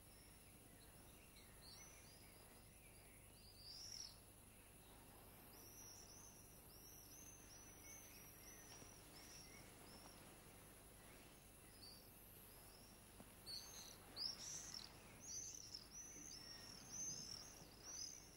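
Faint birds chirping over a low steady hiss: runs of short, high chirps, a few louder ones around four seconds in and more of them toward the end.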